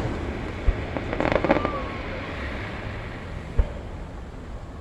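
Aerial fireworks: a short boom less than a second in, then a cluster of crackling about a second in, and another boom about three and a half seconds in.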